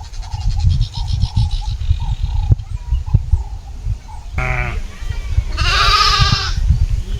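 Goat bleating: a short call about halfway through, then a longer, wavering bleat about a second later. Before the bleats, a bird chirps repeatedly over a low rumble.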